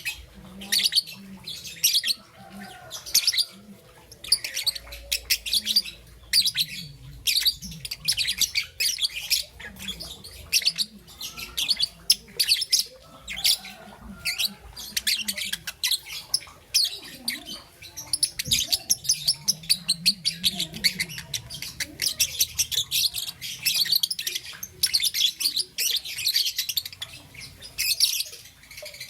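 Young peach-faced lovebird chirping: a fast, continuous run of short, high-pitched chirps with brief pauses.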